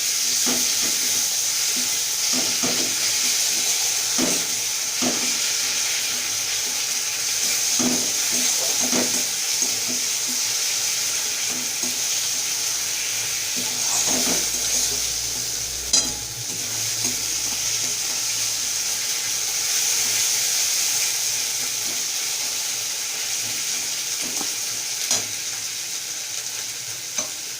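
Onions and spice pastes sizzling in hot oil in a pan, with a spatula scraping and knocking against the pan as they are stirred, and a sharper clink about sixteen seconds in.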